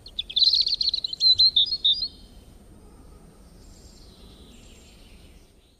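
A songbird singing a quick run of high chirps for about two seconds, then fainter chirping.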